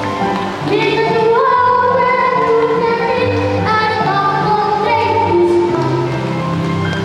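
Children's choir singing a Christmas carol, with long held notes over a lower accompaniment.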